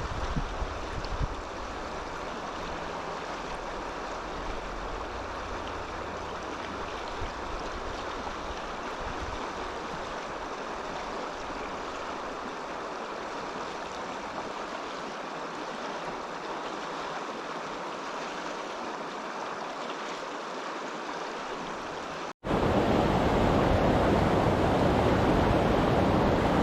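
A mountain trout stream flowing over rocks, a steady rushing hiss of water. About 22 seconds in it cuts abruptly to a louder rush of water with low wind rumble on the microphone.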